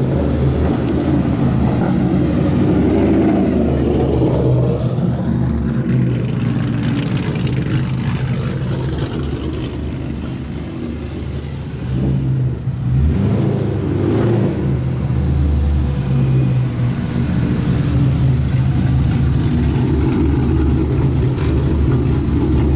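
Modified Ford Mustang V8 running loudly with a choppy, uneven note. It eases down about eight seconds in, then picks back up about twelve seconds in and holds loud.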